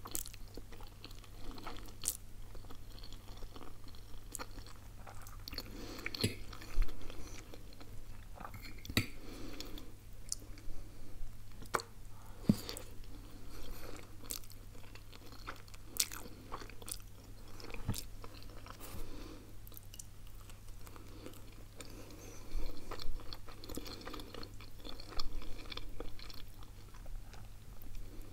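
Close-miked mouth sounds of a person eating spaghetti carbonara and pizza: wet chewing with irregular sharp clicks and smacks. A faint steady low hum runs underneath.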